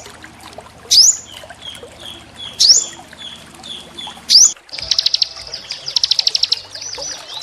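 Small songbirds calling over trickling water. There are sharp rising whistles, repeated three times about every one and a half seconds, with soft short notes between them. About two thirds of the way in, these give way to rapid high trills in quick bursts.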